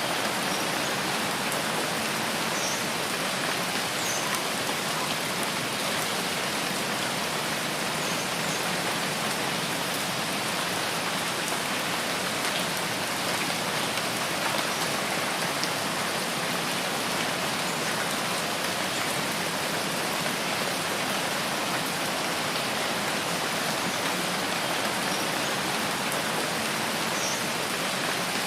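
Steady rain falling in a rain forest: an even, unbroken hiss of rain on foliage. A few faint, short, high chirps come through it now and then.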